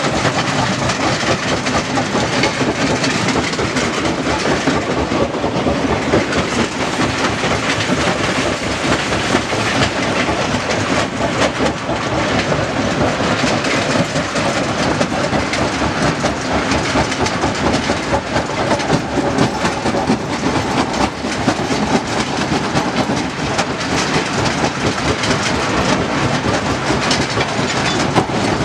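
Stone crusher running, with a dense, continuous rattle and clatter of rock being broken and moved through the machine.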